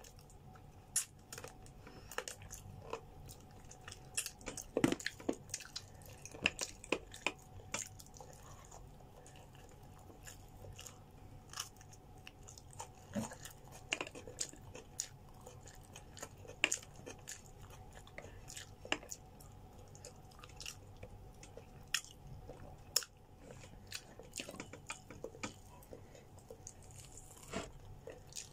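A person chewing grilled chicken, close to the microphone, with many small irregular clicks and smacks of the mouth. The sounds are busiest in the first eight seconds or so and sparser after.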